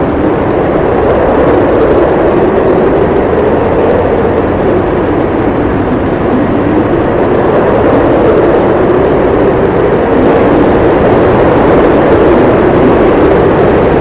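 Blizzard wind howling, with a steady rush and a low wavering howl that swells and eases slowly.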